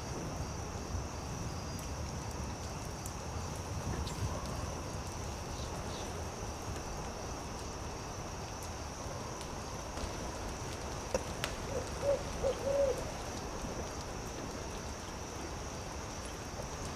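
Campfire crackling softly with a few sharp pops, over a steady high-pitched drone. About eleven seconds in, an owl gives a quick run of five or six short hoots.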